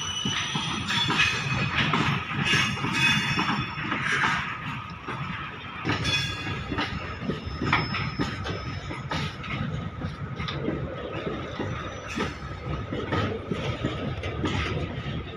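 Indian Railways goods train's wagons rolling past, wheels clicking over the rail joints over a steady rumble, with a thin steady squeal from the wheels.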